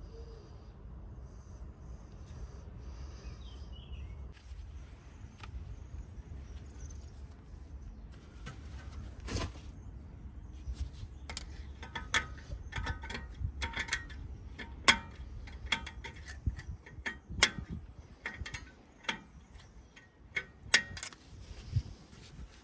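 Irregular sharp metallic clicks and clinks, starting about a third of the way in and growing more frequent, over a low steady rumble.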